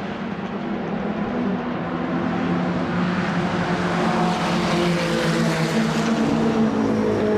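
1960s racing car engine running hard at a steady pitch, growing louder over the first few seconds, then holding.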